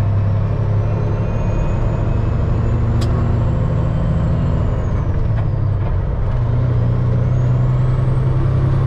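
Semi truck's diesel engine running steadily in slow traffic, heard from the cab, with a faint high whine that rises, dips about five seconds in and rises again. A single sharp click sounds about three seconds in.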